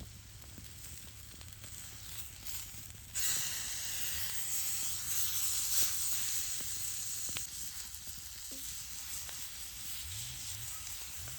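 Food frying over an open campfire: a soft sizzle that suddenly grows much louder about three seconds in and then keeps going steadily, with a few faint clicks.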